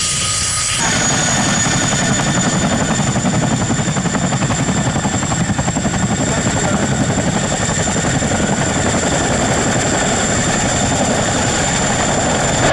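Helicopter running: a steady, rapid rotor beat under a high, steady turbine whine, the sound shifting abruptly about a second in.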